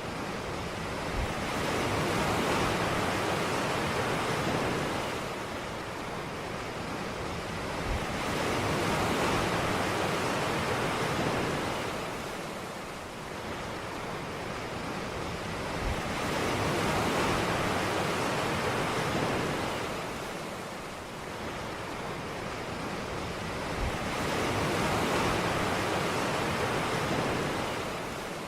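Ocean waves breaking on a beach: a wash of surf that swells and fades about every eight seconds, four times, each swell opening with a soft low thud as the wave breaks.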